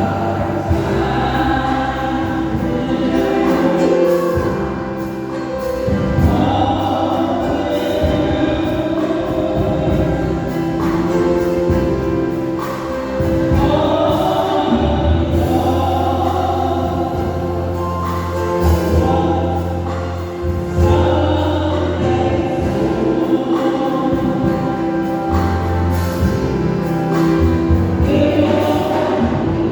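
Church choir singing a gospel song with instrumental accompaniment and a steady bass line.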